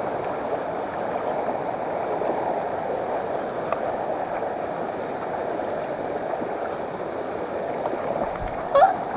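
Waterfall water rushing steadily, an even noise with no pauses. A short vocal sound comes near the end.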